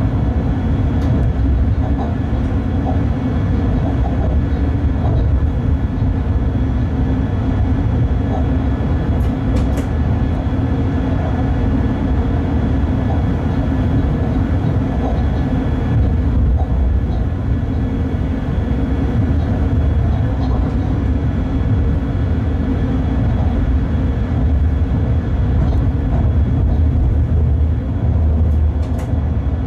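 Cab of a Bombardier TRAXX class 186 electric locomotive under way: a steady low rumble from the running gear on the track, with faint steady whining tones above it and a couple of short sharp clicks.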